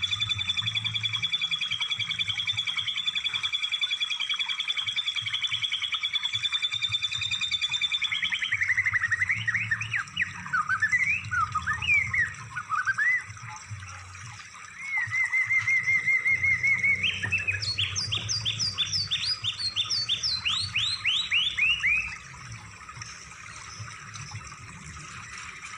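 Recorded songbird song played as masteran, tutoring material for cage songbirds: a rapid trill held for about eight seconds, then quick sweeping whistles, a short trill and a run of fast falling notes.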